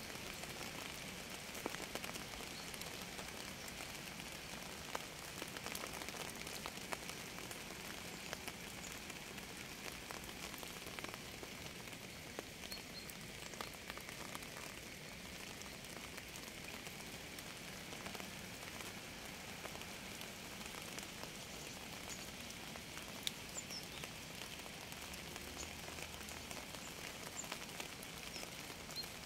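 Steady rain falling, an even hiss dotted with many small drop taps.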